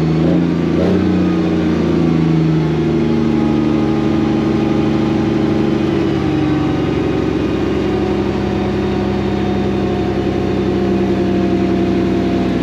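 Detroit diesel engine of a Freightliner semi truck running under load as the truck pulls out; the engine note is steady, drops in pitch about halfway through, then holds steady again.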